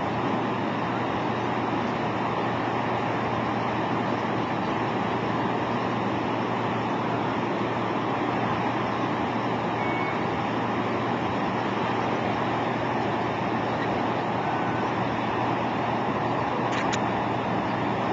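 Steady vehicle running noise with a constant low engine hum, as if heard from inside the moving vehicle; a faint click sounds near the end.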